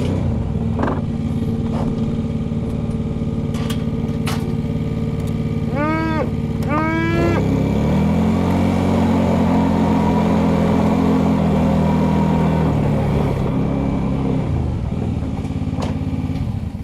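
An engine running steadily, then speeding up about seven seconds in, holding the higher speed for several seconds and settling back down near the end. Two short pitched calls sound over it just before it speeds up.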